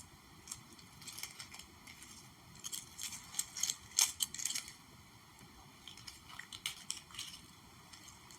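Close-miked ASMR handling sounds: light, irregular crackling and tapping in three clusters, the busiest and loudest from about three to four and a half seconds in.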